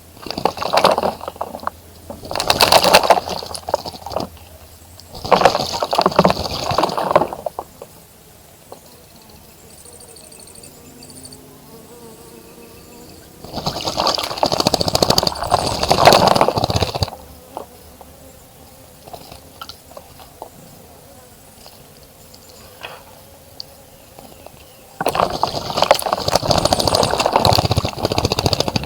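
A bird bathing in a bird bath, splashing the water in five bouts of a few seconds each with pauses between; the last and longest bouts come about halfway through and near the end.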